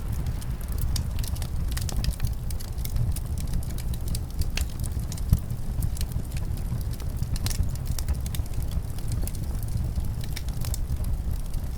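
Wood fire crackling in a fireplace, with frequent small sharp pops, one a little louder about five seconds in, over a steady low rumble of winter wind.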